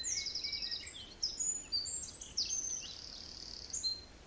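Small birds singing, a busy overlapping run of quick high chirps and trills, over a faint low steady hum.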